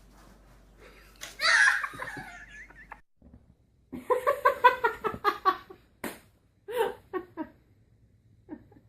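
A person laughing in quick bursts of 'ha-ha-ha', after a loud, high, wavering cry about a second in.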